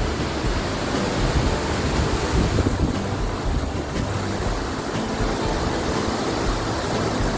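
Steady loud rushing of the Salto del Puma waterfall, with wind buffeting the microphone.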